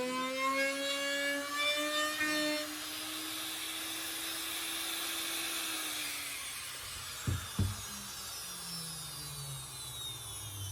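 Woodworking power tool motor whining at a steady, slightly rising pitch, then fading away about six seconds in. Two sharp knocks follow, then a lower motor hum falls in pitch near the end as it winds down.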